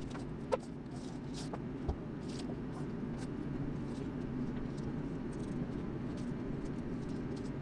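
Masking paper being handled and trimmed into a floor-patch pattern: faint scattered light crinkles and clicks over a steady low hum.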